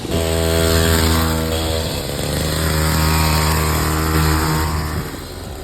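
Small 50cc kids' dirt bike engine running at a steady speed, easing off briefly about two seconds in and dropping away near the end.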